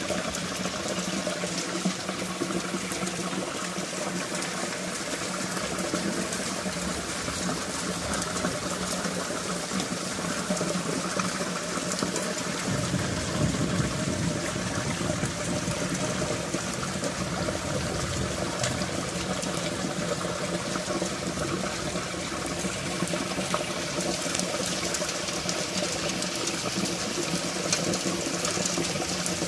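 Heavy rain pouring down steadily, splashing onto a concrete yard and running off clay roof tiles. A deeper rumble joins about halfway through.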